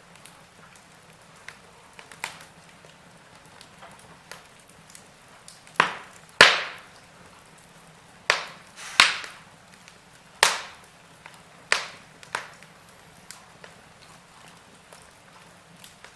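Wood fire in a fireplace crackling, with scattered sharp pops and snaps, several loud ones bunched in the middle.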